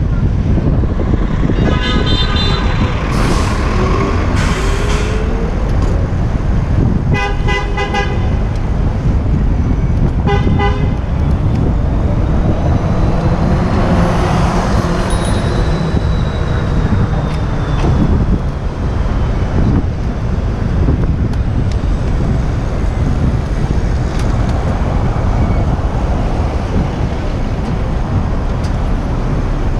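Street traffic heard from a moving bicycle, with a steady low rumble of wind on the microphone. A vehicle horn honks three times in the first ten seconds or so, the last one a short toot.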